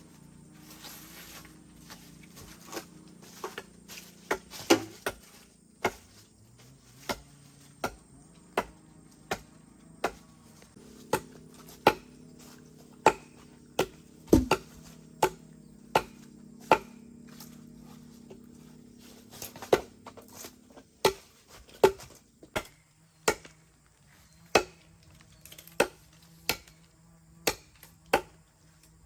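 A tool striking wood over and over: sharp single blows, roughly one a second at an uneven pace.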